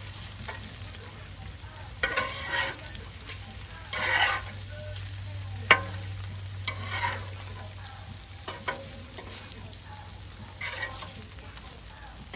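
Smash burger patties sizzling and frying on a hot cooking surface, charring. A few short scraping strokes and one sharp metallic clink about five and a half seconds in, with a low steady hum that fades out about ten seconds in.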